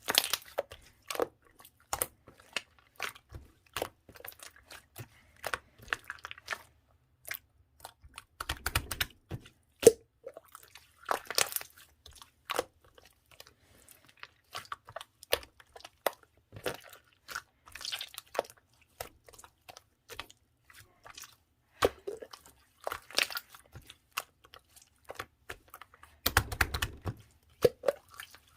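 Clear slime worked by hand, giving rapid, irregular clicks and pops as air pockets burst, with a few longer squishes.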